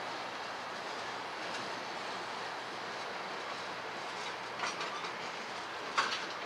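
A freight train of boxcars rolling steadily across a concrete trestle: an even noise of wheels on rail. A few sharp metallic clicks come about two-thirds through, and a louder one near the end.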